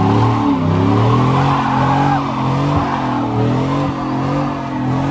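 Vehicle engine revving up and down in a burnout, with the spinning tyres squealing.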